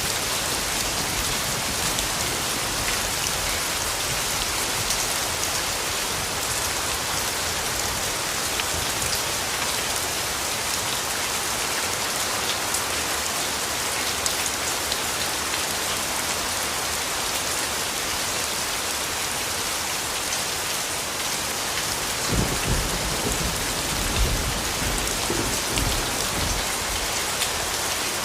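Steady rainfall with fine patter of drops. About two thirds of the way through, a low rumble of distant thunder rolls in for a few seconds.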